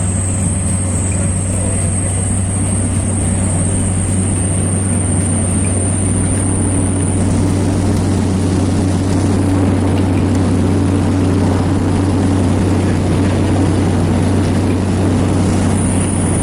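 Engine and propeller noise of a small Susi Air propeller plane, heard from inside the cabin: a steady loud drone with a deep hum and a thin high whine over it.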